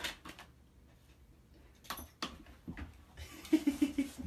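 A pet-door flap knocking and clacking as a large dog pushes through it: sharp knocks at the start and about two seconds in, then a louder scuffling rattle with a quick run of thuds near the end as the dog squeezes through.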